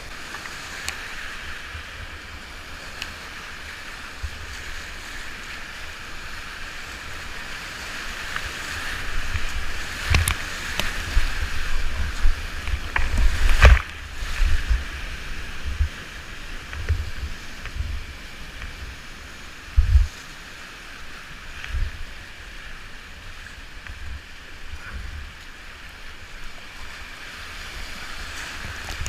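Steady rush of river rapids, with low thuds and a few sharp knocks, the loudest a little under halfway through.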